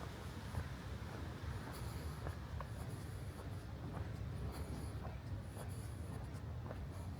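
Strong wind rumbling low on the microphone, with light scratchy rustling and scattered small ticks.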